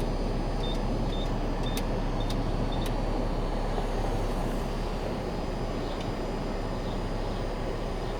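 Car wash entry keypad beeping six times in the first three seconds, one short high beep per key as a six-digit wash code is punched in. Under it is the steady low hum of an idling vehicle.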